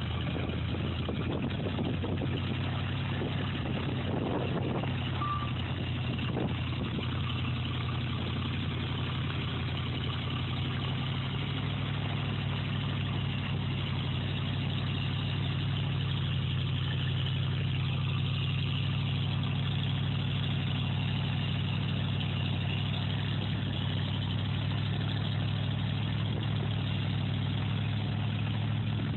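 An engine running steadily, with a slight shift in pitch about a third of the way through.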